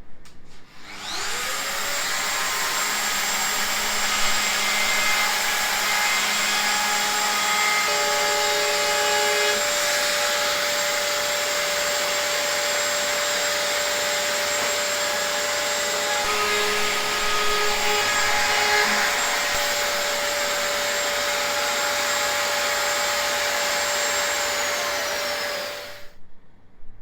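Electric router with a chamfer bit spinning up with a rising whine about a second in, running steadily while chamfering panel edges, then winding down with a falling whine and stopping near the end.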